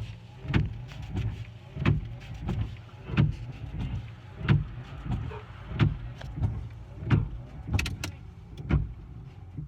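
Car windscreen wipers sweeping over an iced-over windscreen: the wiper motor hums steadily with a thump about every two-thirds of a second, every other one louder, as the blades reverse at each end of their sweep.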